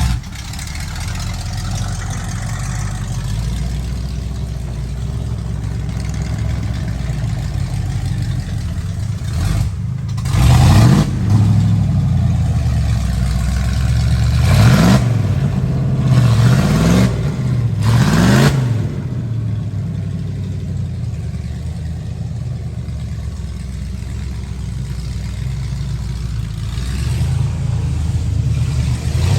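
Mud truck engine running low and steady, revved up in four short bursts about a third to two thirds of the way through, then settling back before building again near the end.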